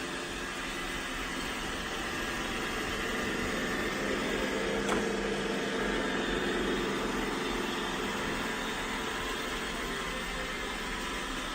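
Roomba i7+ robot vacuum running, its motor and brushes making a steady whir that grows a little louder mid-way, with one short click about five seconds in.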